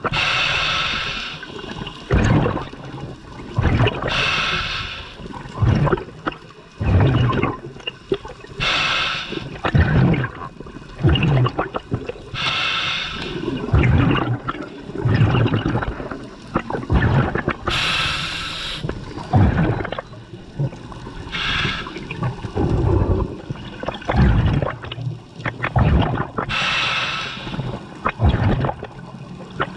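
Scuba diver breathing through a regulator underwater: a rush of exhaled bubbles about every four seconds, with gurgling between breaths.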